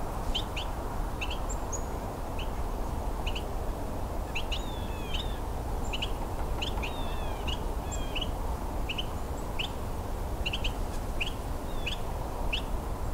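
Two Carolina wrens calling, one close and one farther off: short, sharp call notes repeated about twice a second, with a few longer sliding notes among them, over a steady low rumble.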